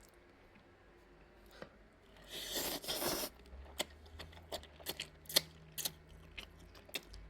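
A person eating noodles: a short noisy slurp about two seconds in, then chewing with sharp mouth clicks, two or three a second.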